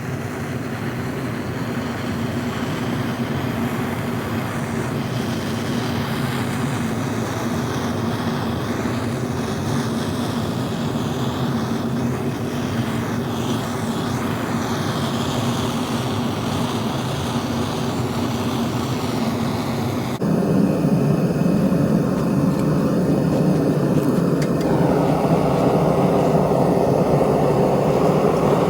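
Metal-melting furnace burner running with a continuous rushing noise and a steady low hum. It gets abruptly louder and fuller about two-thirds of the way through.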